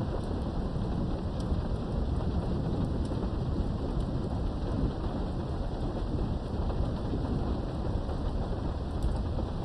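Thunderstorm: steady rain with a low, continuous rumble of thunder underneath and faint scattered drop ticks, heard from behind a window.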